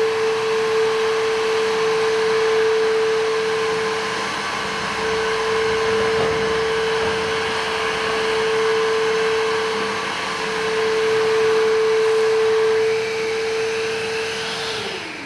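Jimmy HW8 cordless wet and dry vacuum-mop running steadily with a strong, even hum. Near the end it is switched off and the motor winds down, its pitch falling.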